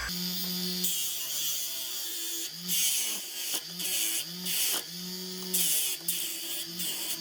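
A small electric motor tool running in repeated short bursts, its hum dipping in pitch each time it stops, with a hiss of it cutting into material during each burst.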